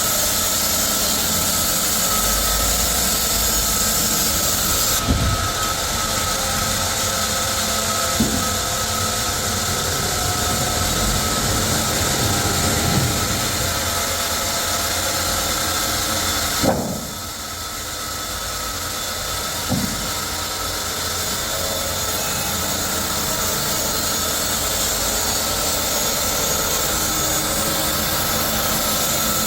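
Sawmill machinery running steadily with a loud, even mechanical noise, broken by a few short knocks, the sharpest about seventeen seconds in.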